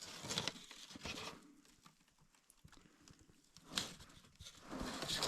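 Young black spruce fire crackling in a small wood stove: scattered faint pops and clicks, with one sharper snap about two-thirds of the way through.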